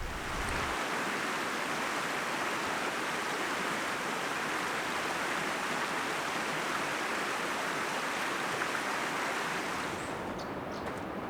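Rushing water of a mountain stream, a steady hiss, growing slightly quieter near the end.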